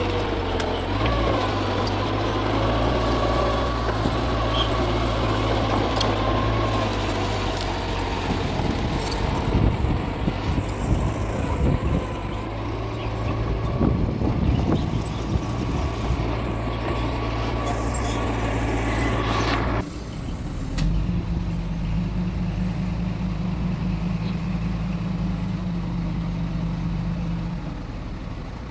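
Mitsubishi G2 bulldozer's diesel engine running steadily under load, with irregular metallic clanking in the middle stretch. About twenty seconds in the sound changes suddenly to a duller, steadier engine note.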